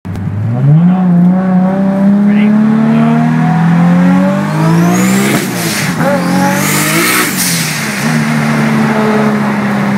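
Turbocharged 3.4-litre stroker Toyota Supra inline-six, heard from inside the cabin, revving hard under full boost and pulling to about 8,000 rpm, with the pitch dropping and climbing again through gear changes. A high rising turbo whistle and a burst of hiss come around the middle of the pull.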